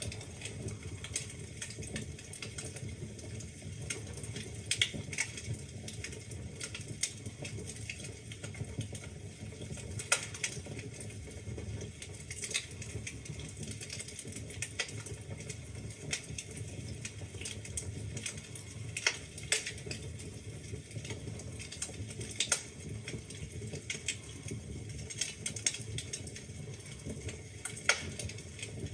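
Wood fire crackling in a fireplace: a steady low rumble of the flames with irregular sharp snaps and pops from the burning logs, a few louder pops standing out.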